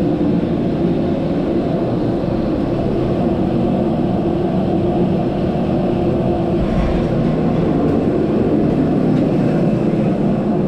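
Steady drone of an Airbus A319 airliner, an even rushing noise with a low hum held level throughout.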